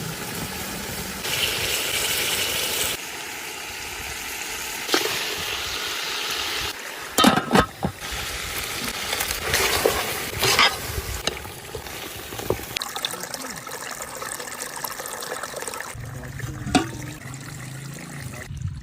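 Flowing water, heard as a steady rush that changes character abruptly several times, with a few sudden louder sounds near the middle.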